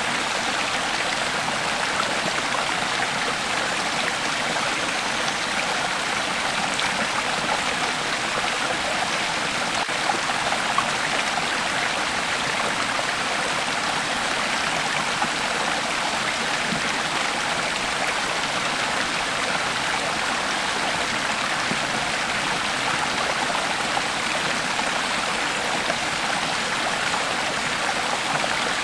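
Creek water flowing over stones, a steady splashing and gurgling rush with small splashes here and there.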